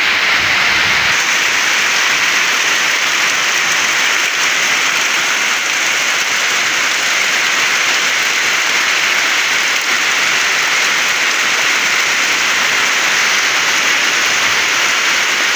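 Heavy tropical downpour: rain pouring steadily onto the ground, trees and plants, a loud, even hiss that does not let up.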